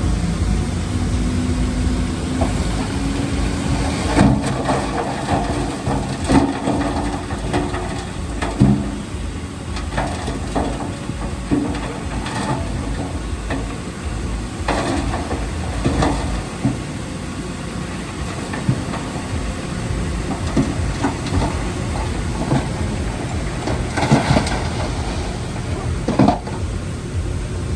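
Heavy diesel earthmoving machinery at work. The engine runs under load with a steady low drone, clearest in the first several seconds, while irregular sharp knocks and clanks of stone and steel come every second or two.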